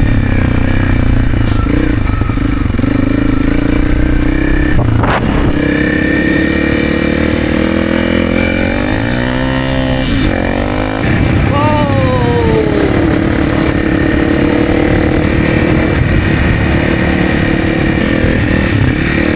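Honda CRF300's single-cylinder engine running steadily and loudly as the bike rides along, its pitch rising and falling with the throttle. For a few seconds in the middle, a man's voice sings over it.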